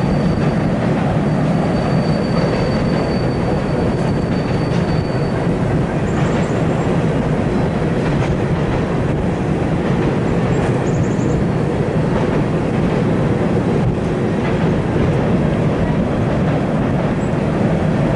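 Freight train cars rolling steadily past, wheels clacking over the rail joints. A faint, thin wheel squeal comes in the first few seconds, with brief high squeaks about 6 and 11 seconds in.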